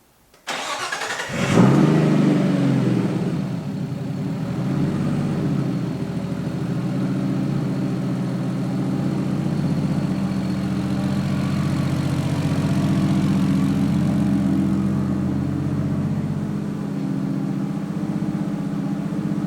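Nissan Skyline R32's RB25DET turbocharged inline-six cranking on the starter for about a second, catching with a brief flare in revs, then settling into a steady idle. This is its first start after an oil change, run to circulate the fresh oil before the level is checked again.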